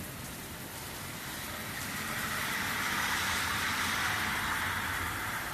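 A car passing on a wet road, its tyres hissing through the water as it comes closer and fades away, over steady rain.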